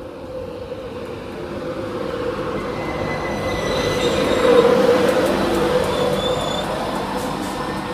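InterCity 225 express train (electric locomotive with Mk4 coaches and driving van trailer) running into the platform, getting louder to a peak about halfway through and then easing. It hums steadily, and thin high brake and wheel squeals sound over the top as it slows to stop.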